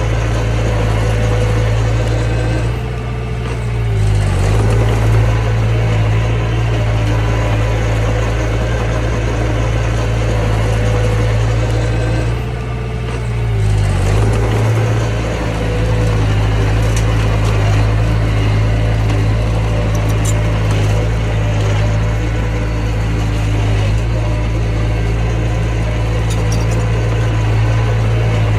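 Mini bulldozer's engine running steadily at working speed. The note sags and the loudness drops briefly twice, a few seconds in and again about halfway, then picks back up.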